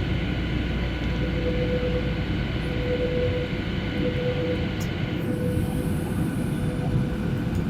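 Steady in-flight cabin noise of a Boeing 737 in a holding pattern: engine and airflow rumble with a faint steady whine over it. The higher hiss thins about five seconds in.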